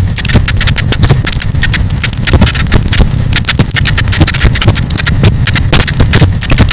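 Campfire crackling: rapid, irregular pops and snaps over a steady low rumble.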